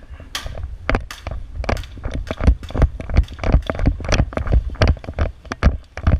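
A quick, irregular run of sharp knocks and heavy low thuds, about four a second, that starts about half a second in and keeps going with no steady beat.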